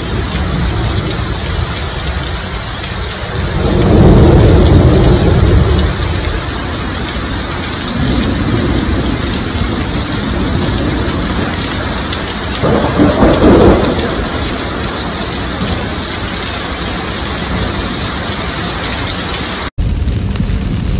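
Heavy rain pouring down in a thunderstorm, a loud steady wash of noise, with two louder low swells about four and thirteen seconds in. The sound breaks off sharply near the end.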